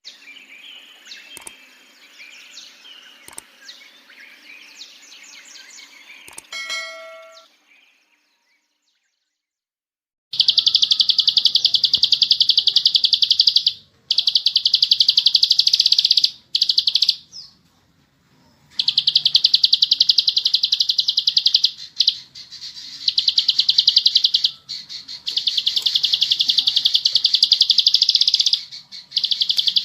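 Ciblek sawah (a prinia) giving its fast, buzzing 'ngebren' trill in long loud bursts of several seconds with short breaks, starting about ten seconds in. Before it come scattered chirps and a short run of ringing tones, then a few seconds of silence.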